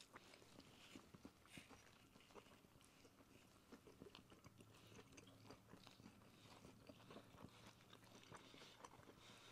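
Faint chewing and small mouth clicks of people eating soft flour-tortilla tacos, with scattered short crunches.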